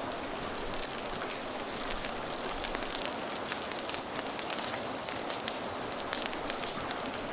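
Steady rain hissing, with a wood fire crackling over it in many small sharp pops that come more often from about two seconds in.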